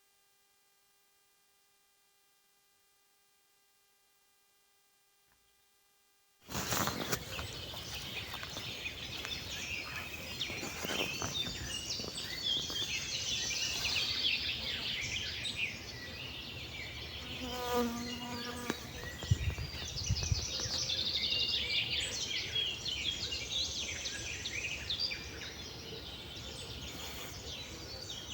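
Near silence with a faint electrical hum for about six seconds, then suddenly a forest dawn chorus: many birds singing and chirping at once, with a low background of insects and the outdoors.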